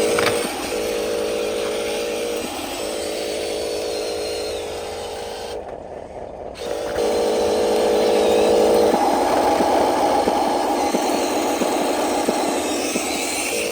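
Small electric motors and plastic gearboxes of radio-controlled construction models whirring at a steady pitch. They stop and start again several times, then give a rougher grinding run for a few seconds near the end.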